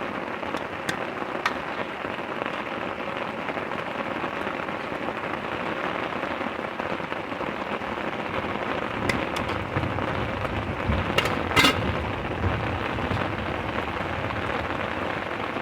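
Steady heavy rain pattering down, with scattered sharp drop ticks. About two thirds through, a low rumble swells and fades under the rain, with a quick cluster of sharp knocks at its loudest point.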